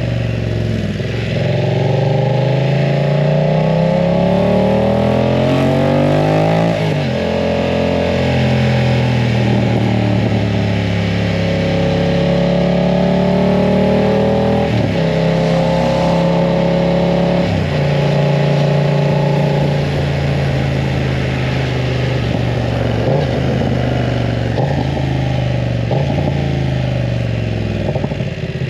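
BMW F900 R parallel-twin engine through a full aftermarket exhaust, accelerating on the move. Its pitch climbs, then drops sharply at gear changes about three times.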